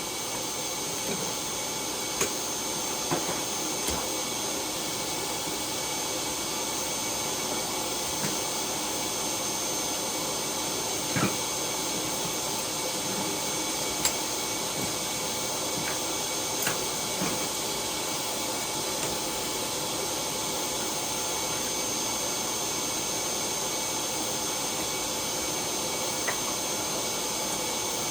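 A steady machine running with a constant whirring hum, with a few light clinks and knocks of metal parts being handled over it.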